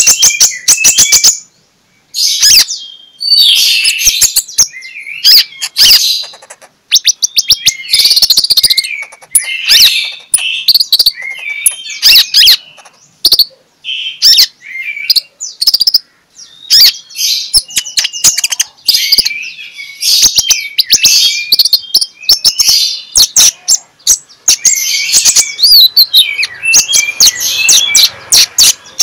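Konin ('kolibri ninja') sunbird singing loudly in full song: fast high-pitched chirps and twittering trills in phrases a few seconds long, broken by short pauses.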